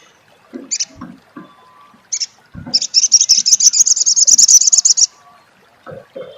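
Olive-backed sunbird (sogok ontong) giving its 'crecet' call: two short high chirps, then a fast chattering trill of about ten notes a second lasting about two and a half seconds. A few soft low thumps are heard between the calls.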